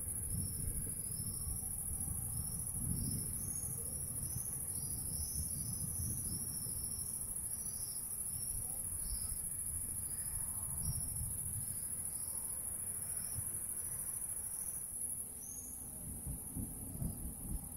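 Crickets chirping steadily: a constant high shrill with repeated short chirps above it, over a fluctuating low rumbling noise.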